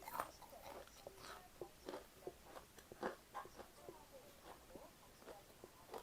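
A person chewing food close to the microphone, with short irregular mouth clicks a few times a second.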